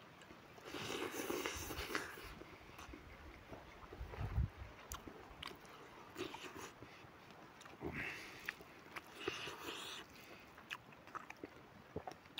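A person chewing a mouthful of rice and smoked pork close to the microphone, with scattered wet mouth clicks and smacks.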